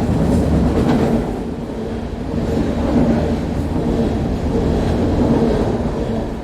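Train crossing a railway bridge, heard from underneath: a loud rumble with a steady droning hum from the vibrating bridge. The sound dips about a second in, swells again, and falls away near the end.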